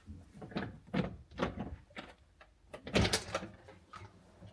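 A door being opened and shut, with a series of knocks and scrapes, the loudest cluster about three seconds in.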